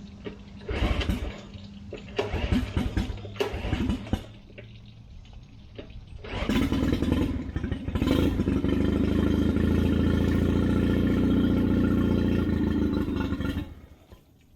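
Nissan Marine outboard motor being started: a few short bursts of cranking, then about six seconds in it catches and runs steadily for several seconds before it stops near the end.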